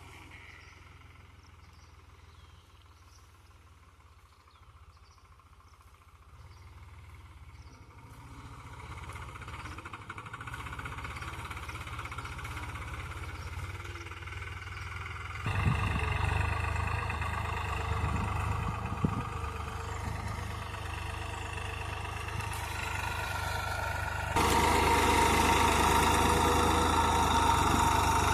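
New Holland 3600-2 tractor's diesel engine running while pulling a reversible plough. It is faint at first and grows louder, then jumps suddenly louder about halfway through and again near the end.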